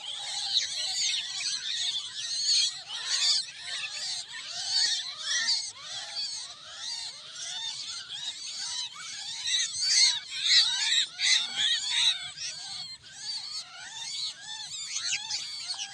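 A flock of starlings calling all at once: a dense, continuous chorus of chattering whistles and harsh rasping notes, many birds overlapping.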